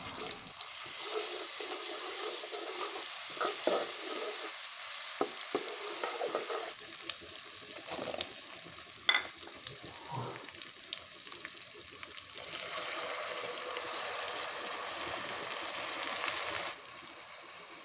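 Onions and ginger-garlic paste sizzling in hot oil in a metal pot, being fried to cook off the paste's raw smell. A spatula scrapes and knocks against the pot now and then, loudest about nine seconds in, and the sizzle falls off sharply near the end.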